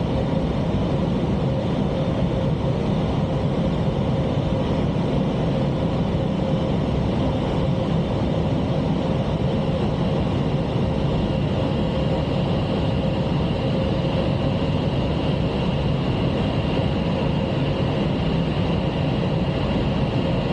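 Steady rush of airflow and engine noise inside an Airbus A320 cockpit on final approach, with a thin steady whine running through it.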